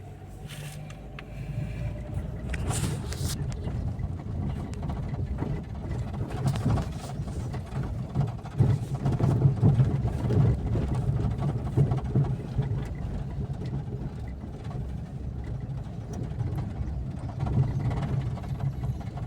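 Car being driven over a rough road, heard from inside the cabin: a steady low rumble of engine and tyres that grows louder about two seconds in, with a few short knocks.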